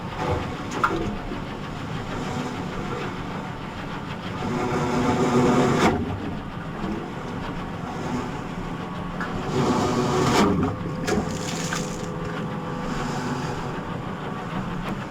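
Heavy machinery running with a steady drone, broken by a few sharp metallic clanks and knocks, louder swells about five and ten seconds in.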